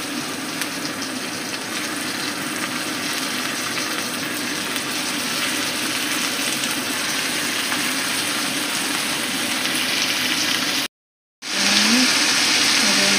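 Chicken pieces and chopped onions sizzling in oil in a nonstick frying pan, a steady hiss. The sound cuts out briefly about eleven seconds in and comes back louder.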